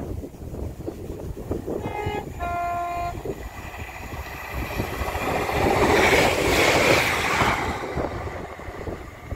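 Class 197 diesel multiple unit sounding a two-tone horn on approach, a short higher note then a longer lower one, before running past loudly, the passing noise at its loudest about six to seven seconds in. Wind buffets the microphone throughout.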